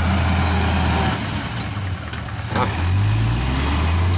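Dump truck's diesel engine running, easing off for a moment and then picking up revs about three seconds in.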